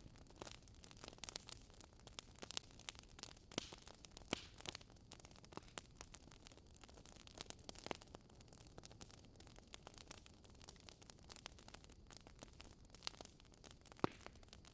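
Wood fire crackling in a fireplace: irregular sharp pops and snaps of burning wood over a faint steady hiss.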